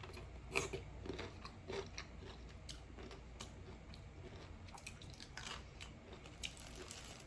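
A person chewing a pickle close to the microphone: faint crunches and mouth clicks, with the strongest bites in the first two seconds and again about five and a half seconds in.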